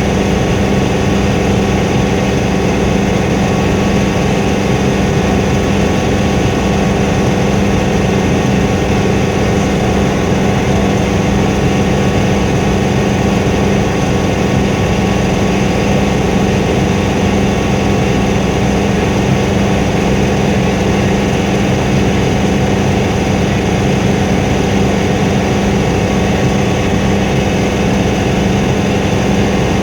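Helicopter engine and rotor drone heard from inside the cabin, loud and steady.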